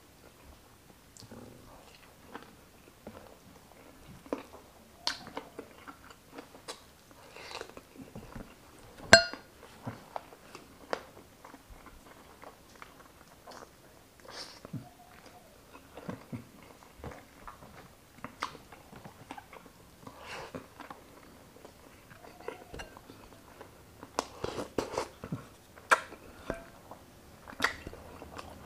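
Chewing and biting of grilled chicken inasal, with irregular wet mouth clicks and crackles and the tearing of meat by hand. About nine seconds in there is one sharp, louder knock with a brief ring, and the chewing gets busier near the end.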